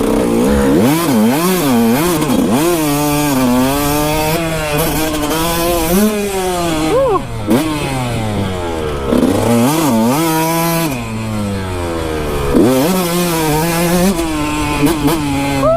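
Kawasaki KX125 two-stroke dirt bike engine revving up and falling back again and again as it is ridden, its pitch rising and dropping with the throttle.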